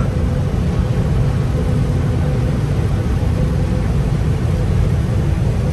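Combine harvester running steadily while harvesting corn at a slow field speed: a loud, even, low engine drone with a steady hum over it.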